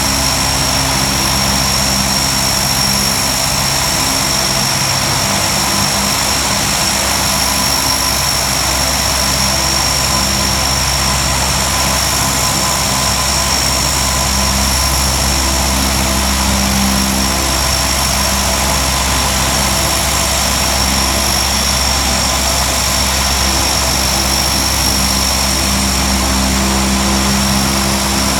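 Lockheed P-3C Orion's Allison T56 turboprop engines running on the ground: a steady high turbine whine over a propeller drone whose low tones swell and fade slowly.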